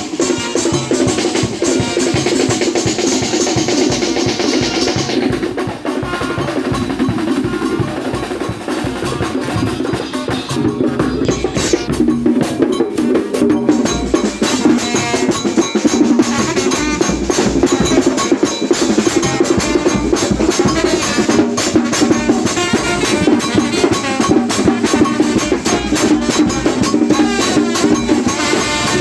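Percussion-led music with a fast, dense drum rhythm and a deep bass drum, played for soloku dancing. A bright, hissing high layer drops out about five seconds in and comes back around halfway.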